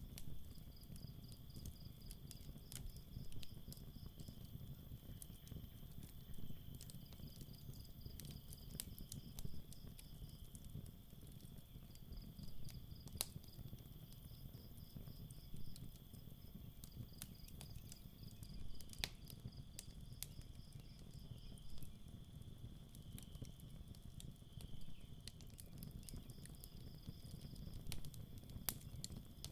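Campfire crackling, with scattered sharp pops over a low steady rumble. Crickets chirp in repeated short trills over a steady high insect hum.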